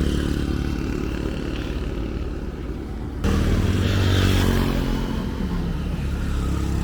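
Road vehicle engine running close by, with a steady low hum. It jumps abruptly louder about three seconds in.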